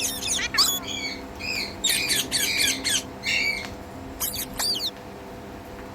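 Indian ringneck parakeet squawking and chattering in a rapid run of short, harsh calls and bent whistled chirps, stopping about a second before the end.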